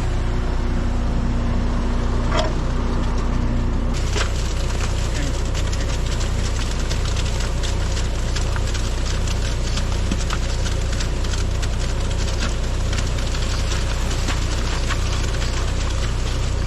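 Concrete mixer truck's diesel engine running steadily while wet concrete is worked down its steel chute. From about four seconds in there is a dense gritty crackle and rattle of stones and concrete sliding and scraping in the chute.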